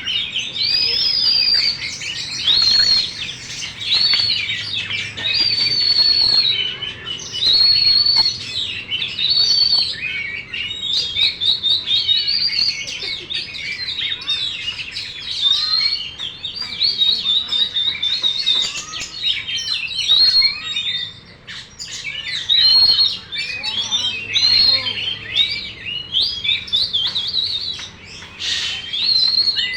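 Oriental magpie-robin (kacer) singing a long, varied song: clear high whistled phrases about every second or two, mixed with quick chattering and twittering notes.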